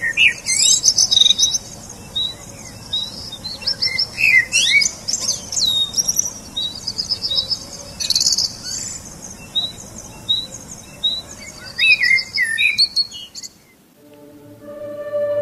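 Many small birds chirping and twittering, with trills and a short high chirp repeating about twice a second. Near the end the birdsong cuts off abruptly, and choir music with held chords fades in.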